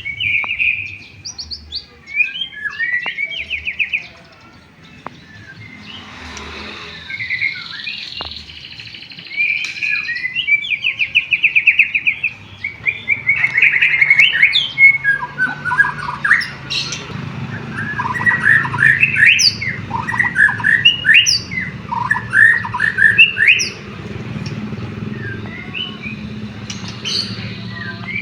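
White-rumped shama (murai batu) singing a long, varied song of whistles, rapid trills and sweeping notes, full of learned canary phrases. The song grows denser and louder from about the middle on.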